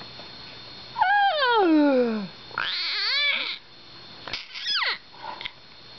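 A baby making screechy groaning vocal noises, three calls in a row. The first is long and slides down in pitch, the second is a higher arched squeal, and the third is a short squeak that drops sharply.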